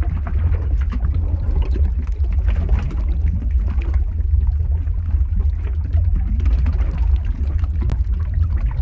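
Lava flow ambience sound effect: a steady deep rumble with irregular bubbling and crackling over it, and a sharp click near the end.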